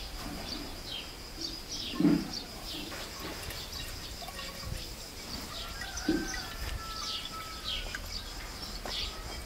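Small birds chirping repeatedly in short high calls over a low outdoor background rumble, with two short dull thumps about two seconds and six seconds in.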